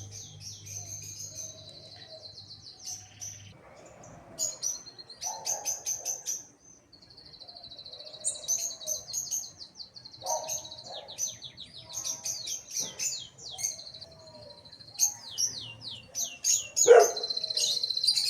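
Small birds chirping and twittering in fast runs of repeated high chirps and quick trills, with a few lower, louder calls, the loudest near the end.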